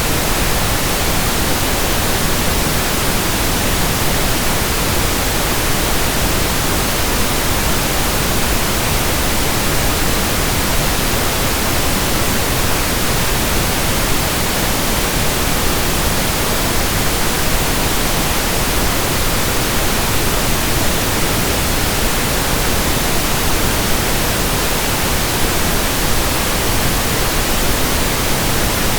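Steady pink noise: an even, unchanging hiss spread across all pitches, with no rhythm or breaks.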